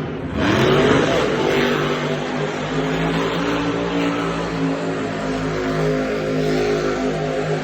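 Monster truck engine revving hard: the pitch climbs in the first second, then the engine holds steady at high revs.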